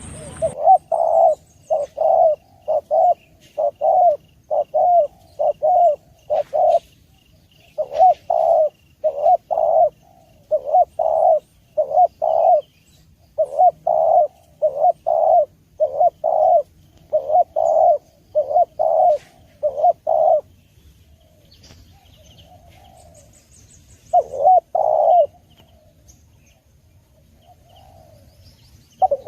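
Spotted dove (tekukur) singing: a long run of repeated low, clear coos in quick succession. The coos stop about twenty seconds in, and a few more come near the end.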